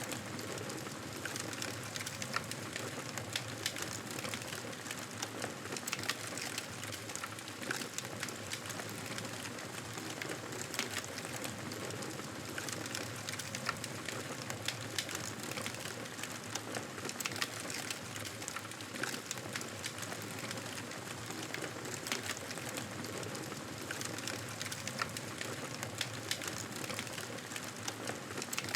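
Wood fire crackling and popping steadily, with irregular sharp snaps over a soft hiss.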